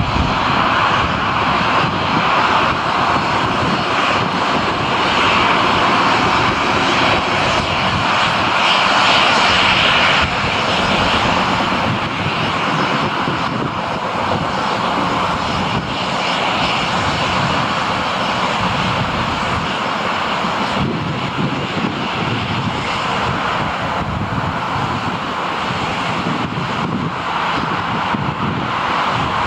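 Airliner jet engines running as a continuous broad noise, loudest around nine seconds in and easing slightly afterwards.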